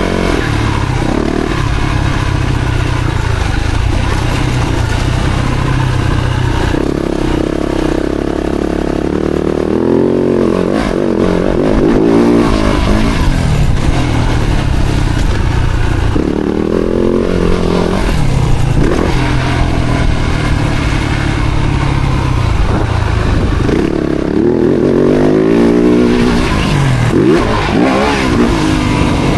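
Four-stroke Yamaha motocross bike engine running hard, its pitch sweeping up and down again and again as the throttle is opened and shut through the gears.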